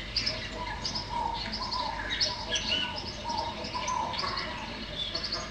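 Many small birds chirping and twittering, short overlapping calls with no break.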